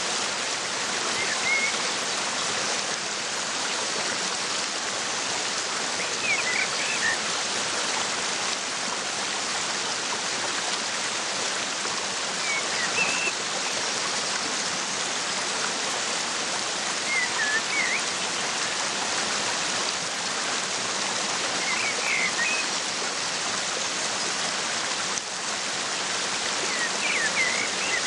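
Waterfall rushing steadily, with a small bird giving short clusters of high chirps about every five seconds.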